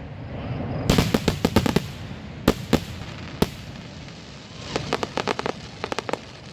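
Fireworks going off: a rapid string of sharp crackling pops about a second in, three single sharp bangs around the middle, and another quick run of pops near the end.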